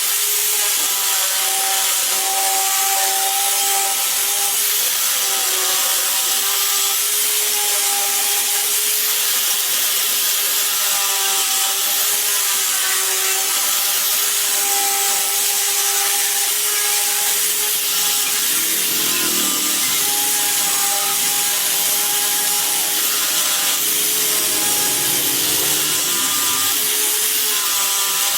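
Power tool running steadily on wood: a constant motor hum under a hiss of material being worked, with no pauses.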